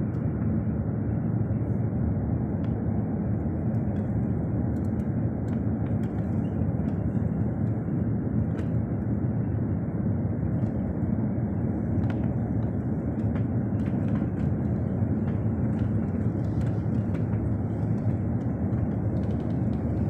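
A steady low rumble that holds at an even level throughout, with no swell or fade, and a few faint ticks over it.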